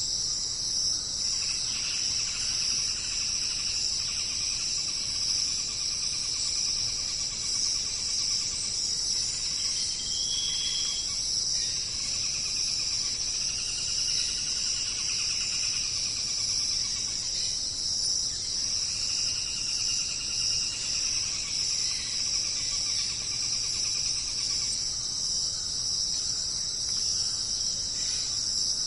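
Dense chorus of insects: a steady, high-pitched drone of many callers, with lower trilling calls fading in and out every few seconds and one short high note about ten seconds in.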